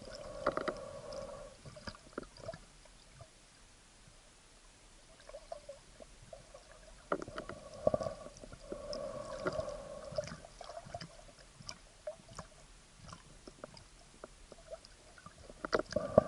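Muffled sounds during a dive: scattered sharp clicks and knocks, and a few breaths through a snorkel, each with a hollow tone, about half a second in, around nine to ten seconds, and again at the very end.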